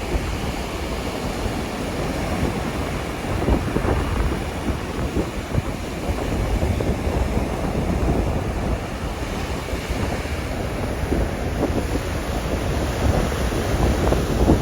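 Strong, gusty wind from an approaching typhoon buffeting the microphone in a continuous rumble, over the wash of rough sea waves.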